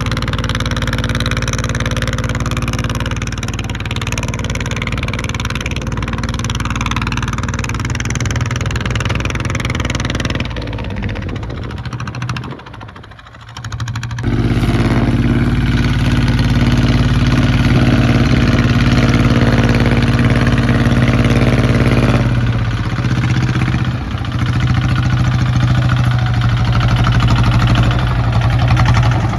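Kubota ZT155 single-cylinder diesel tractor engine running steadily. Its sound drops away sharply about twelve seconds in and comes back stronger about two seconds later, then shifts again a little after twenty seconds.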